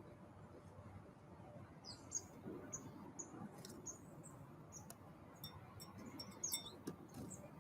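Small wild birds at a feeder giving short, high chirps, scattered and sparse from about two seconds in, over a faint steady hiss.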